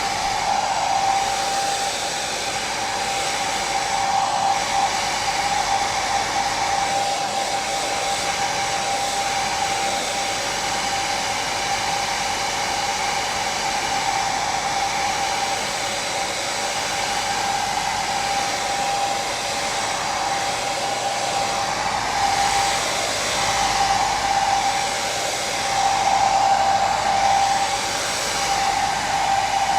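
Hair dryer running steadily: a constant rushing of air with a steady whine in it, swelling slightly now and then.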